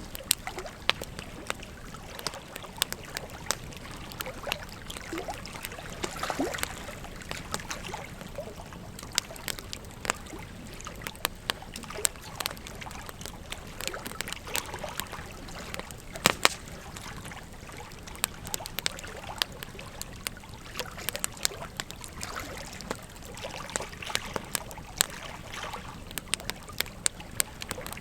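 Wood fire crackling with irregular sharp pops over the steady rush of flowing river water, with a couple of louder pops just past the middle.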